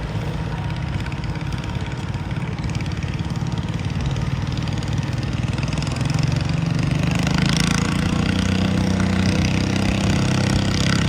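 Garden pulling tractor's engine running steadily, growing louder about halfway through.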